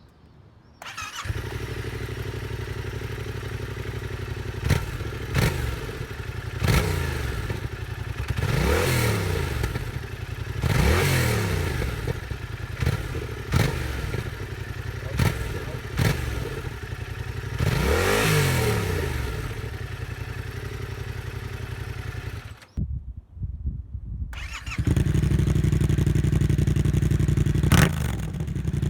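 Yamaha MT-07's 689 cc parallel-twin engine starting, then idling and blipped several times, each rev rising and falling. Near the end the sound cuts out briefly and the engine is heard again at a steady, louder idle.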